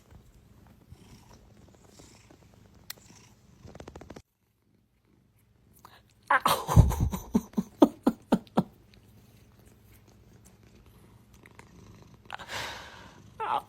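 A domestic cat purring and making cat sounds. The loudest part is a run of rapid pulses lasting about two seconds midway, and near the end there is a shorter call that falls in pitch.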